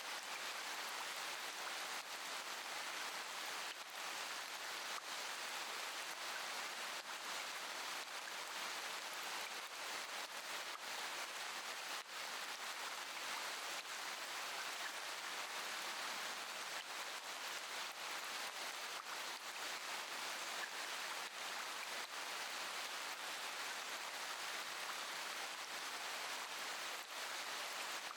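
Steady rain falling, an even hiss with faint scattered drop ticks through it.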